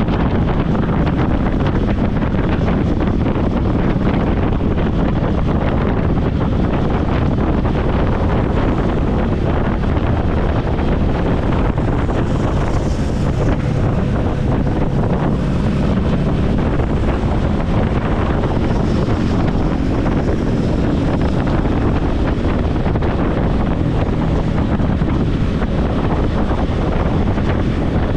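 Steady wind noise buffeting a helmet-mounted microphone while riding a motorcycle, with the bike's engine running underneath.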